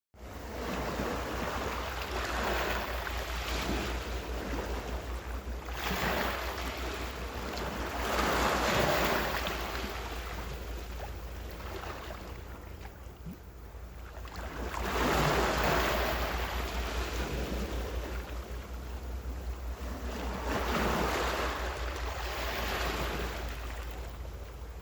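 Ocean waves washing onto the shore, swelling louder every few seconds and then receding, over a steady low rumble.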